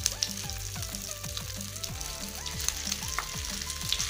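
Boiled mashed potato sizzling as it is scraped into hot oil tempered with mustard seeds, with a wooden spatula scraping and knocking against a glass bowl and the pan.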